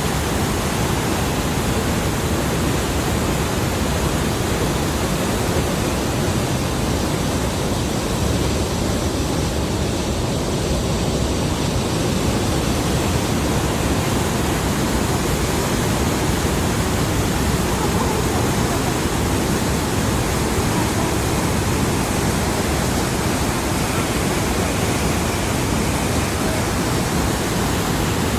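Steady rushing of the Rhine Falls, a large waterfall, deep and even with no breaks.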